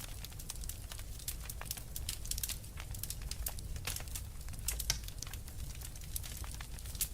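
Fireplace fire crackling, with many quick sharp snaps and pops, several a second, over a steady low rumble.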